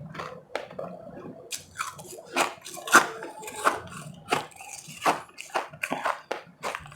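Close-miked biting and chewing of powdery ice: a run of sharp crunches, about two a second, the loudest about three seconds in.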